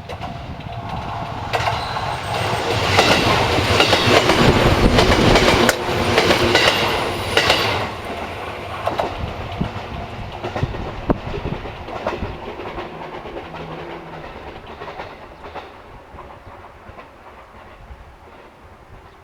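A train passing on the track. It grows louder as it approaches, is loudest from about three to eight seconds in, with wheels clicking over the rail joints, then fades steadily as it moves away.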